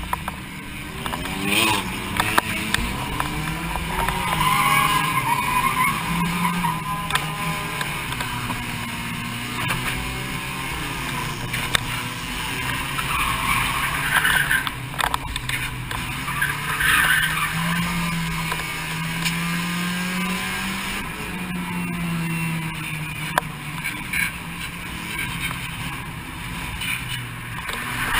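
Car engine revving up and falling back again and again as the car is driven hard through tight turns, heard from inside the cabin.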